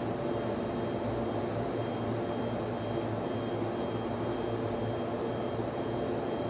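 Server room ambience: the steady whir of server and network-switch cooling fans with a low electrical hum, and a faint high whine above it.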